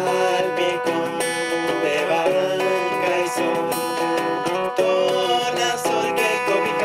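Instrumental music led by acoustic guitar, played with plucked and strummed notes in a steady melodic passage.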